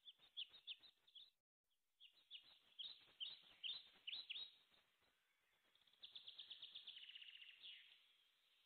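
A bird singing: a string of quick, high, downward-sweeping chirps, then a fast trill about six seconds in. The sound cuts out completely for about half a second near the start.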